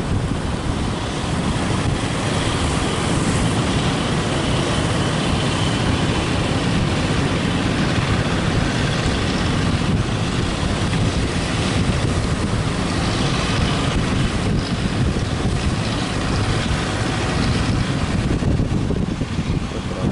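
Boat engine running steadily under way, with strong wind buffeting the microphone.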